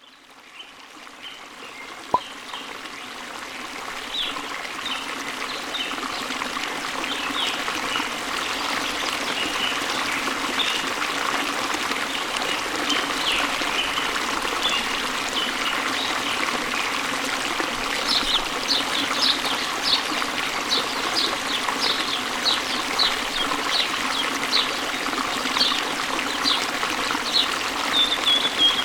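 Waterfall and flowing stream, a steady rush of water that fades in over the first several seconds, with small birds chirping repeatedly over it; the chirps grow busier and louder in the second half. A single sharp click about two seconds in.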